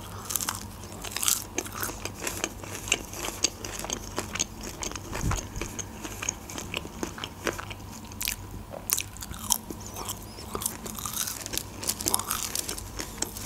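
Close-miked chewing of a breaded chicken nugget: a bite, then a steady run of small crunchy, crackly mouth clicks as it is chewed.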